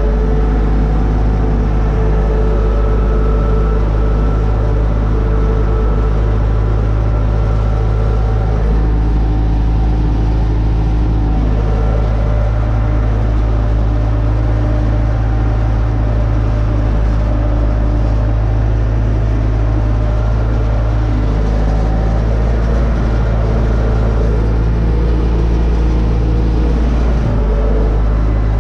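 UTB Universal 650 tractor's four-cylinder diesel engine running steadily, with a deep, even drone and small shifts in pitch now and then.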